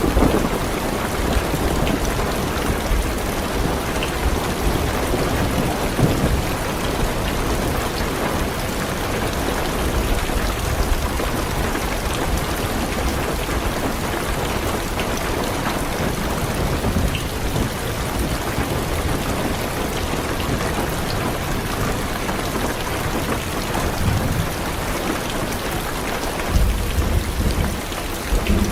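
Heavy rain falling steadily on a car's roof and windows, with low rolls of thunder now and then, the clearest one near the end.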